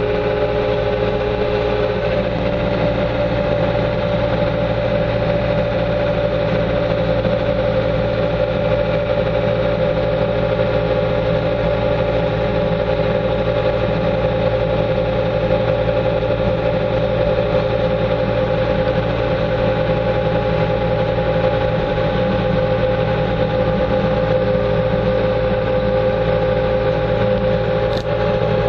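Bobcat 2410 articulated loader's engine running at a steady speed, heard from inside the cab. A brief click comes near the end.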